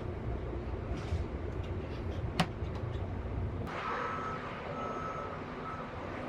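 Low, steady rumble of an idling bus with a single sharp click partway through. Near the end the rumble drops and a series of short electronic warning beeps starts, repeating about once a second.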